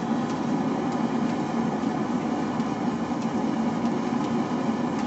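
Forge running with a steady, even roar. A few faint ticks sit on top of it.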